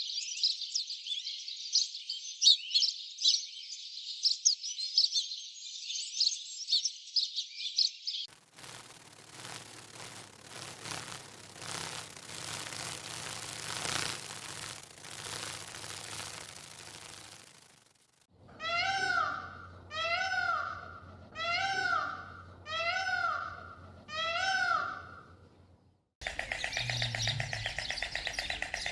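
A run of different animal sounds: dense, high chirping for about eight seconds, then a stretch of rustling noise. After that come five evenly spaced calls, each rising and falling in pitch, and near the end a steady buzzing chatter starts abruptly.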